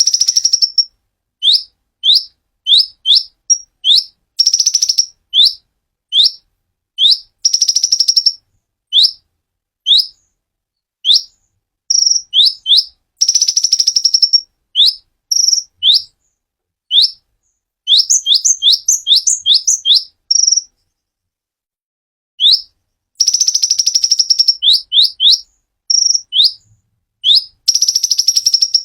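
Konin songbird singing loudly and clearly: strings of short, sharp, high chirps, one or two a second, broken every few seconds by fast, buzzy trills a second or so long. There is a brief pause about twenty seconds in.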